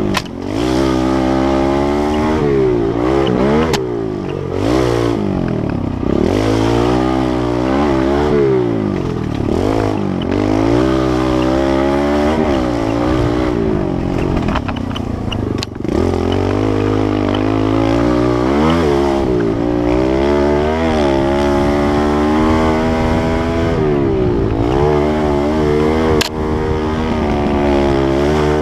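Kawasaki KLX110L pit bike's small single-cylinder four-stroke engine being ridden, its pitch rising and falling over and over as the throttle is opened and rolled off. There are a few sharp clicks or knocks along the way.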